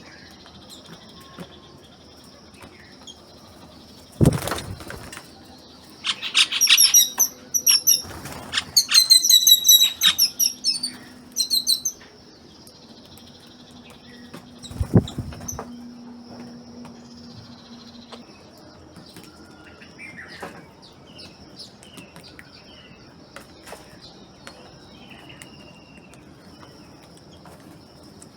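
Small birds chirping in quick, high bursts for several seconds, with two sharp thumps, one before the chirping and one after it, and fainter scattered chirps later. A faint, steady high tone runs underneath.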